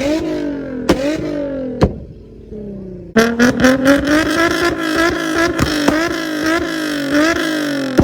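Infiniti G35 coupe's 3.5-litre V6, tuned for pops, being revved through a Tomei titanium exhaust. Two quick rev blips each end in a sharp pop. It then drops back quiet for about a second. A little after 3 seconds in it comes back abruptly loud with a run of short, repeated blips and pops.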